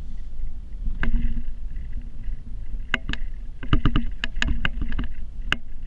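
Sharp clanks and knocks over a steady low rumble during snow plowing, with the iron pull plow's gear as the likely source. There are single knocks about a second in and near three seconds, a quick run of them in the middle, and one more near the end.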